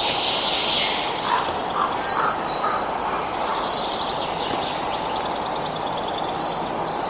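Wild birds chirping with short, high notes a few times over a steady rushing noise.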